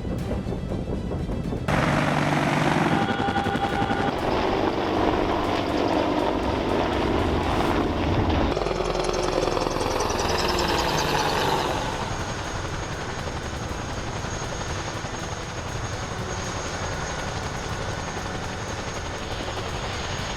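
Helicopter rotor and engine noise that changes abruptly about two, eight and a half and twelve seconds in. A thin steady high whine runs through the last part.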